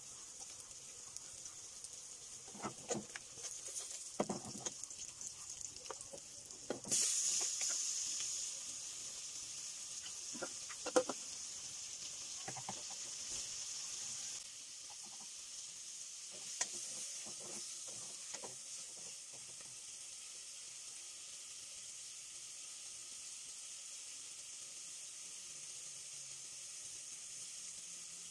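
Raw pork pieces go into hot oil in an aluminium pot, setting off a sudden loud sizzle about seven seconds in that fades over several seconds. Spatula knocks and scrapes against the pot come before and after, and then a steady, quieter sizzle as the meat fries.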